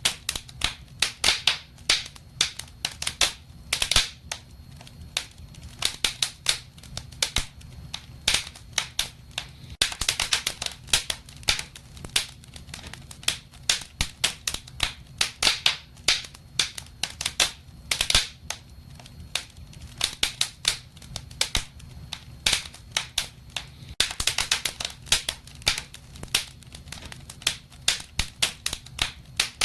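Wood fire in a fireplace crackling: many irregular sharp pops and snaps, with a low rumble of the flames beneath.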